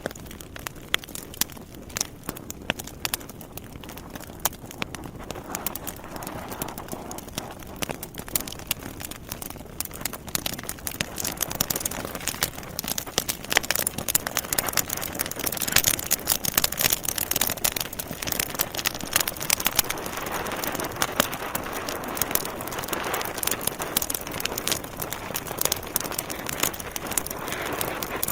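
Wood fire burning in a fireplace: logs crackling and popping in dense, irregular snaps over a soft rushing of flames that grows a little fuller after the first few seconds.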